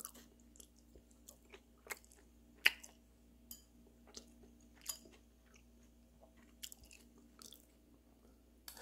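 Close-up chewing and biting of steamed beef tripe: faint, irregular crunches and clicks, the loudest about a third of the way in, with light taps of chopsticks against the ceramic bowl.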